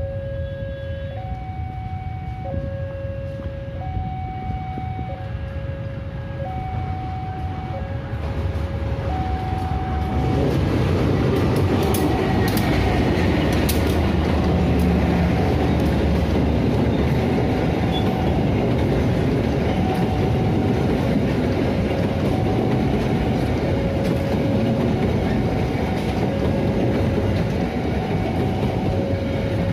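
A level-crossing warning signal alternates between two tones, about one cycle every 1.3 s. About ten seconds in, a locomotive-hauled passenger train passes close by and becomes the loudest sound: a heavy rumble with wheel clatter over the rail joints, while the alternating signal carries on underneath.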